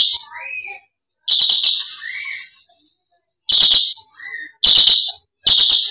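Dusky lory screeching: about five loud, harsh, rasping screeches of about half a second each, with softer short rising chirps in the gaps.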